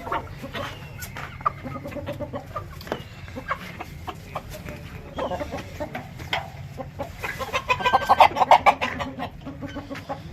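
Chickens clucking, short calls on and off, with a louder run of quick clucks about eight seconds in.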